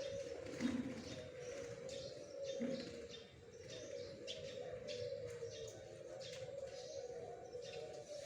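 Many zebra doves (perkutut) cooing at once, making a continuous wavering low hum. High, short chirps from small birds sound over it throughout.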